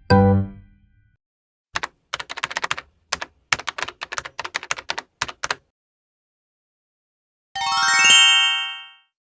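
Keyboard typing clicks, quick irregular keystrokes for about four seconds, then a short bright chime about three-quarters of the way through. A piano-like music note dies away at the start.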